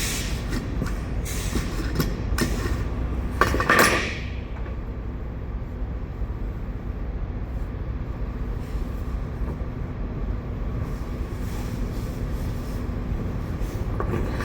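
Steady low mechanical rumble with a faint hum. In the first four seconds there are a few knocks and short bursts of noise, the loudest a brief rush just before four seconds in.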